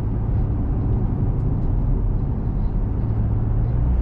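Steady engine and road rumble inside a small truck's cab while driving, a low drone whose engine note shifts near the end.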